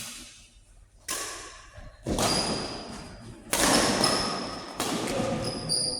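Racket hits in a doubles rally: five sharp strikes roughly a second apart, several followed by a brief high ringing ping.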